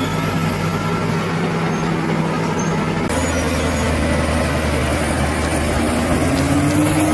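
Bulldozer's diesel engine running steadily. The sound changes abruptly about three seconds in, and the engine note rises near the end.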